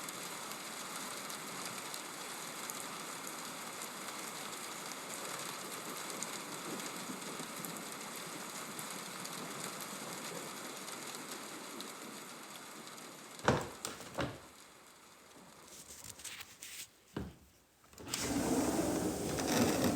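Steady rain, an even hiss, which stops abruptly about thirteen seconds in. A few sharp knocks follow, then a louder burst of noise near the end.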